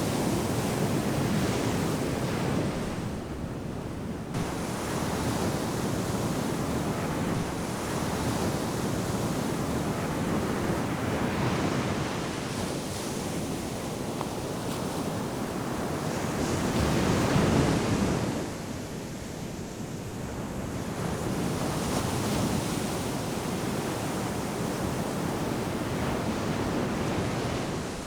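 Ocean surf breaking and washing up a sandy beach, a steady rush of water that swells and eases as waves come in, with the biggest swell a little past the middle. Some wind buffets the microphone.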